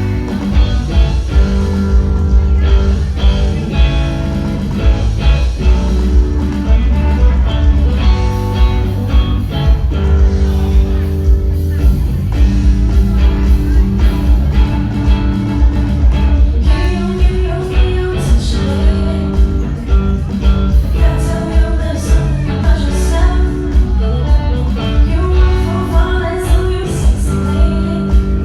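Live band music with singing, heard from backstage: a heavy, booming bass and a steady beat under the voice and instruments.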